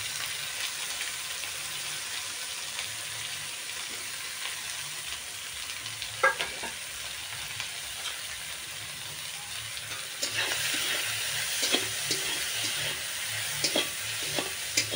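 Oil sizzling steadily in a wok as dried fish and ground spices fry with chopped onion and green chilli. A single clank about six seconds in, then from about ten seconds in a steel spatula scrapes and knocks against the wok as the mixture is stirred.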